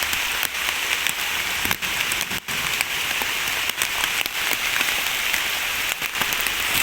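Steady rain falling, a dense hiss with many separate drop taps.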